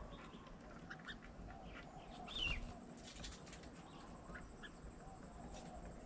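Several birds making short chirps and calls, with a louder, falling call about two and a half seconds in.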